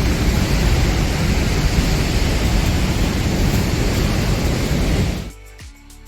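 Steady rushing roar of the Blackwater Falls waterfall. It cuts off about five seconds in, giving way to background music with a regular beat.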